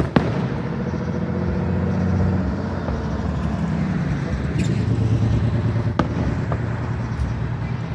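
Fireworks going off: one sharp bang just after the start and a few fainter cracks later, over a steady low rumble carrying an engine-like hum that slowly shifts in pitch.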